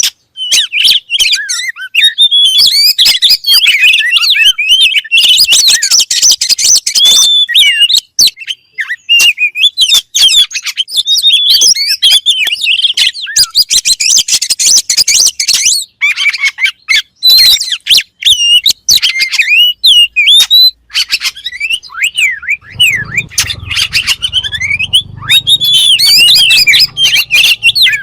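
Oriental magpie-robin (kacer) singing loudly and without pause: quick, varied whistles, chirps and sharp clicks, with short gaps between phrases. A faint low rumble joins in about 23 seconds in.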